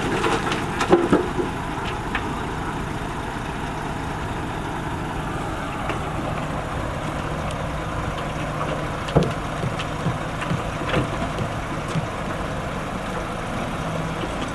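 Diesel engine of heavy road-building machinery running steadily, with a few short clunks about nine and eleven seconds in.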